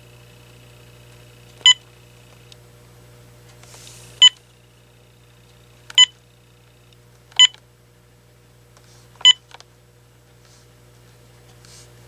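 Key-press beeps from an AT&T 7720 cordless phone as its buttons are pressed to step through the menus: five short, identical single-pitch beeps at uneven gaps of one to two seconds. A faint low hum runs underneath.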